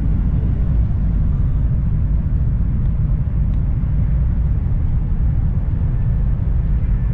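Steady low rumble of a high-speed train running at speed, heard inside the carriage.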